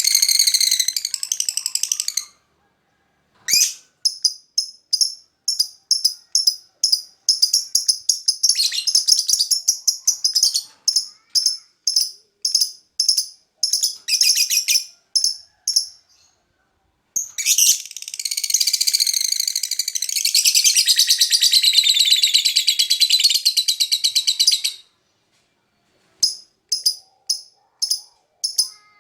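Lovebird singing: series of short, sharp, high chirps, two to three a second, broken by one long unbroken rapid chattering trill of about seven seconds in the second half.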